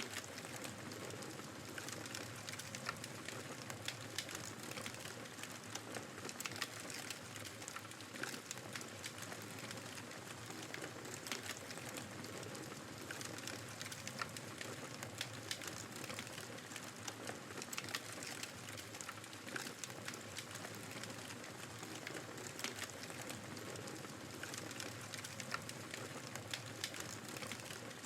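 Wood fire crackling, with frequent small irregular pops and snaps, over a steady rush of snowstorm wind.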